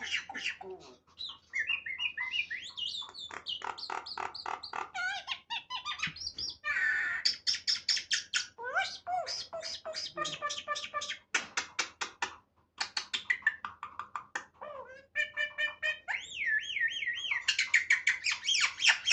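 Pet myna bird calling without pause: a run of chattering, squawks, quick repeated clicks and warbling whistles that rise and fall in pitch.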